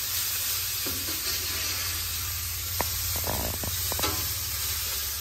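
Onion and spice masala sizzling steadily in a nonstick frying pan as a metal ladle stirs and scrapes it, with a few light clicks of the ladle against the pan about three to four seconds in.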